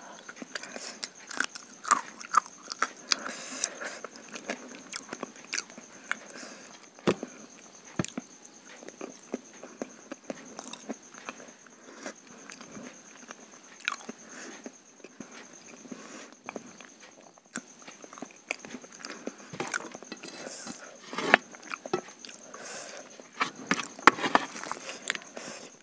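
Close-miked eating sounds of rice and curry eaten by hand: wet chewing and lip smacks coming as frequent irregular clicks, with fingers working the food on a steel plate. A faint steady high whine runs underneath.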